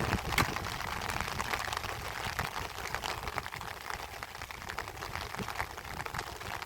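Rain falling steadily, heard as a dense hiss of many separate drop ticks, with one sharper tick about half a second in.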